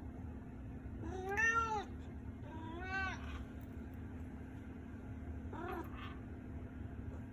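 Domestic cat meowing three times: two drawn-out meows, the first the loudest, then a short one near the end. A steady low hum runs underneath.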